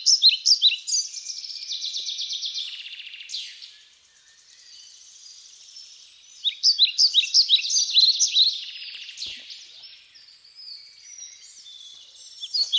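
A songbird singing fast, loud phrases of high chirping notes, a new phrase roughly every six seconds, with fainter birdsong between the phrases.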